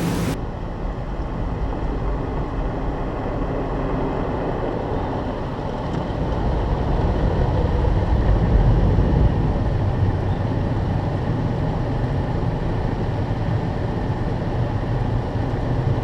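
Istobal M18 car wash's rotating brushes running and scrubbing over the car, heard from inside the cabin as a steady low drone that grows a little louder about six seconds in. A hissing spray on the car stops abruptly just after the start.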